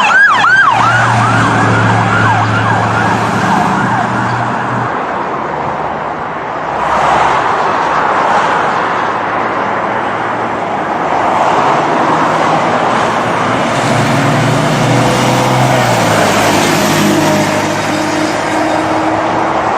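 Police car siren on a fast yelp that cuts off about half a second in, followed by a car's engine and road noise during a chase, with the noise growing louder again about seven seconds in.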